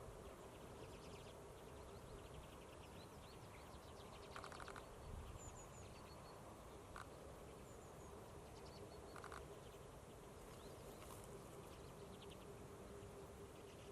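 Common redpolls calling faintly: a few dry, rapid rattling trills from the feeding flock, with short high notes between, over a faint steady hum.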